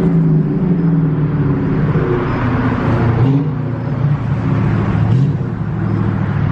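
A car engine running loud and rough close by, with short blips of the throttle about three and five seconds in.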